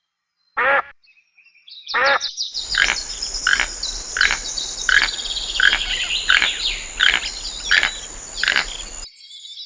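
Animal calls: two short pitched calls about a second apart, then a run of short repeated calls, roughly one or two a second, over a steady hiss and a thin high steady tone. The run cuts off suddenly near the end.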